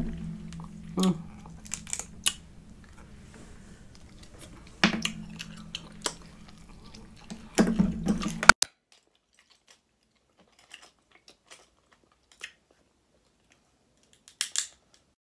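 Close-miked eating of sauce-coated crab: chewing with sharp wet clicks. A low steady hum runs under it and cuts off abruptly about two-thirds of the way in. After that there are only a few faint clicks.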